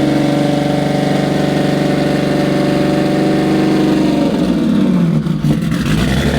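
Big-turbo Infiniti G35's 3.5-litre V6 running at a steady idle, then the revs fall about four seconds in.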